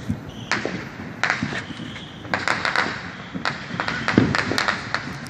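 Fireworks going off: an irregular string of sharp pops and crackles, thickest in the middle and near the end.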